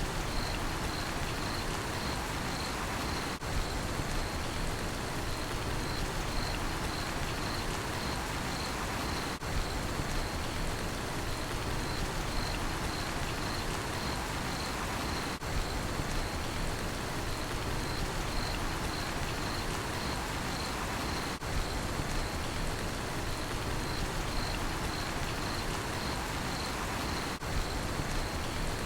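Steady rain falling, with a cricket chirping in a regular, even rhythm over it. The sound dips briefly about every six seconds.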